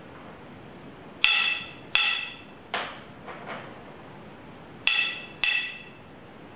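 A hard object struck six times, each hit a sharp knock with a short pitched ring that dies away within about half a second; the hits come in two louder pairs with two weaker hits between them.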